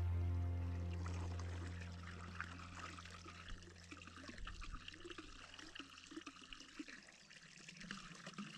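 Background music fading out over the first couple of seconds, leaving faint trickling water.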